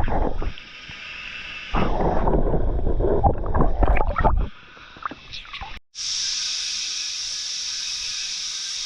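Water splashing and sloshing with some knocks as a bass is released from the kayak. After a brief break, a steady high-pitched cicada drone takes over.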